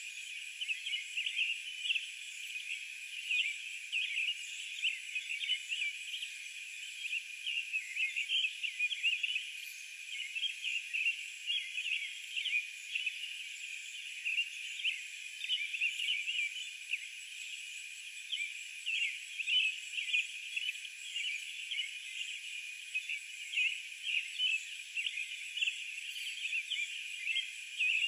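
Dense, unbroken chorus of many small animals calling, a mass of short high chirps over a steady high trill.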